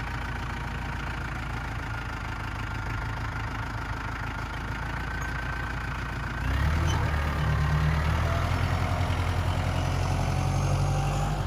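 Tractor's diesel engine running steadily at a low idle, then rising to a louder, heavier note about six and a half seconds in as it comes under load or is revved.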